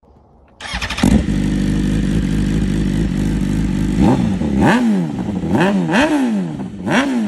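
Motorcycle engine starting up and idling steadily, then revved in about five quick throttle blips, each rising and falling in pitch.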